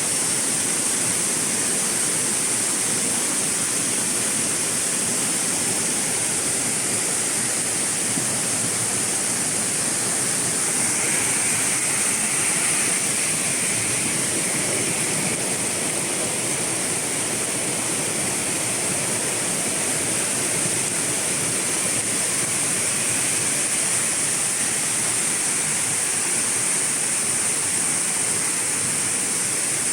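Waterfall water rushing in a steady, continuous roar of noise, with a steady high hiss on top.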